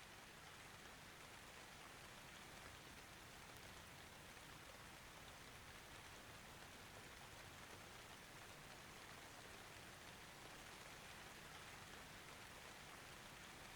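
Faint, steady rain, heard as an even hiss with no thunder.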